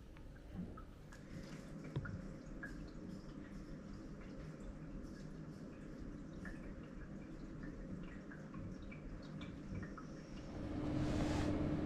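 Water dripping: scattered, irregular drips over a low steady background. Near the end a louder rushing noise with a steady hum starts.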